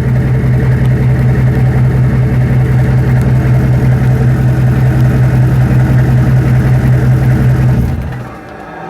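Turbocharged diesel truck engine idling steadily while the hot turbo cools down after a long haul, then cutting out about eight seconds in.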